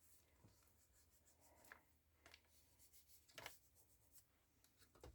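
Near silence, with a few faint rustles and light taps of paper pieces being handled and set on a page, the loudest about three and a half seconds in.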